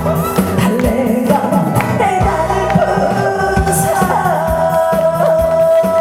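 A singer performing a song live over band accompaniment with a steady drum beat, holding one long note near the end.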